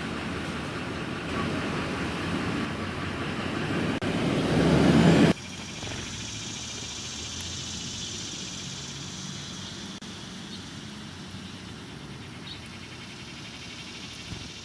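Motor vehicle or road-work machinery running with a steady noise that builds, then cuts off abruptly a little over five seconds in to a quieter, steadier engine sound with a hiss on top.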